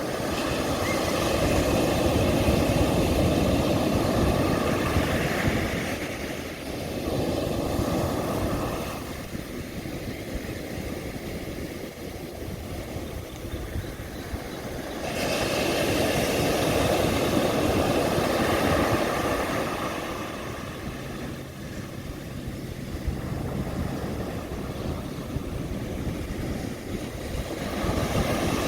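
Sea waves breaking on a beach, the surf rising and falling in long washes, loudest at the start and again about halfway through.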